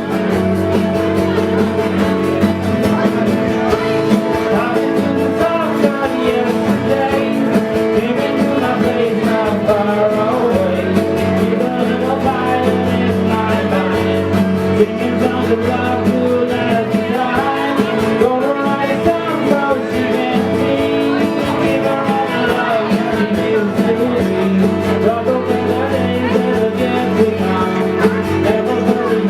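A rock band playing a song, with electric guitars and singing.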